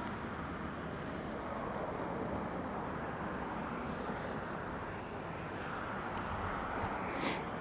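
Steady rushing noise of wind and wet road while riding, with one short sharp click near the end.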